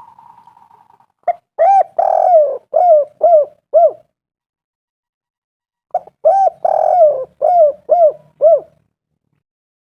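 Spotted dove (tekukur) cooing: two phrases of about six short, arched coos each, a couple of seconds apart.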